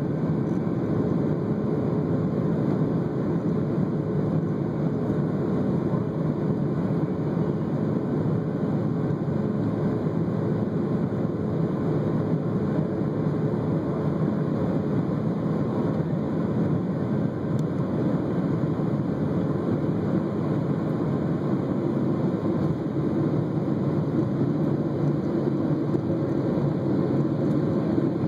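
Inside the cabin of a Boeing 757 during takeoff or climb, the jet engines and the rushing airflow make a steady, even noise, with a faint steady hum running through it.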